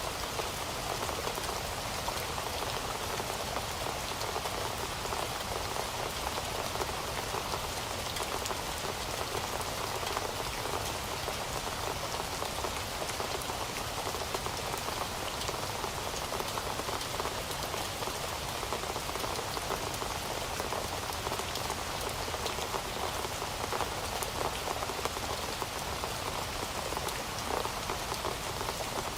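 Heavy rain falling steadily on a surface, a dense, even patter of many drops without let-up.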